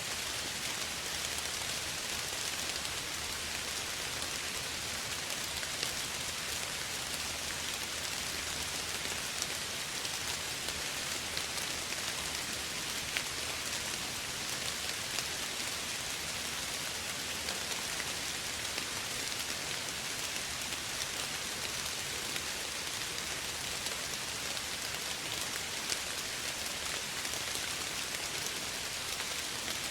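Steady soft rain falling, an even hiss with scattered individual drops ticking on a surface.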